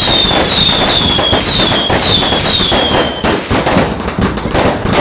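Fireworks going off: a run of short whistles, about two a second, each falling slightly in pitch, over dense crackling. The whistles stop about three seconds in, leaving irregular crackles and pops.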